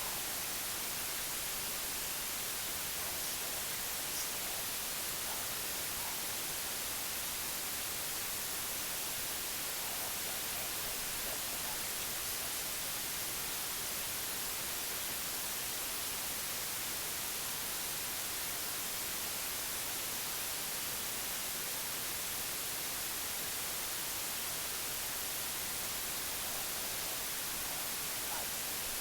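Steady white noise: an even hiss, strongest in the high frequencies, that never changes.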